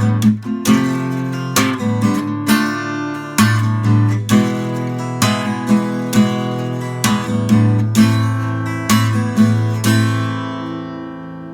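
Music: acoustic guitar strumming chords, the last chord about ten seconds in ringing out and fading.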